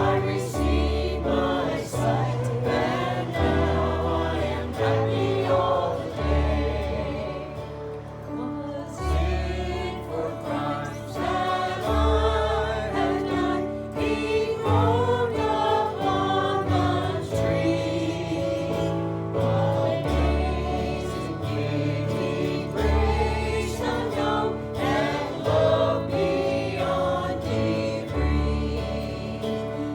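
Group of voices singing a gospel song over instrumental accompaniment, with a bass line moving note by note beneath.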